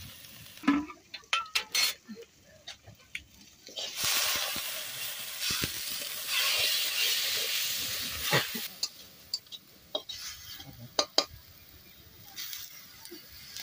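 A metal spatula scraping and clinking against a metal wok as spice powder is stirred into hot oil and onions. About four seconds in, a steady sizzle of frying runs for several seconds, followed by more scrapes and clinks.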